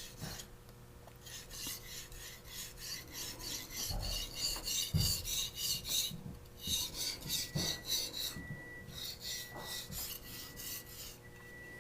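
Steel petty knife blade being stroked back and forth on a Japanese natural whetstone, a quick run of short gritty scraping strokes that stops briefly a few times and resumes.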